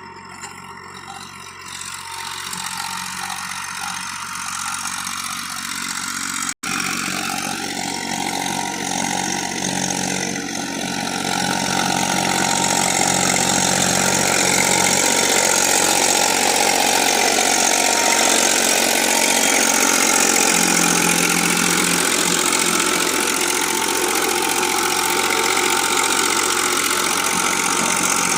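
Eicher tractor's diesel engine running. It grows louder over the first few seconds, breaks off for an instant about six and a half seconds in, and is louder still from about twelve seconds on.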